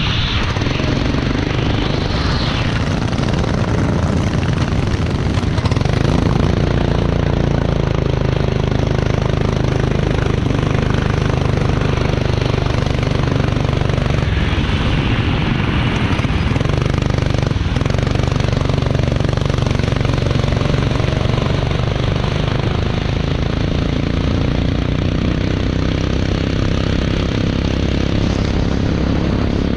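Racing vehicle's engine running continuously close by, its pitch rising and falling a little as the revs change.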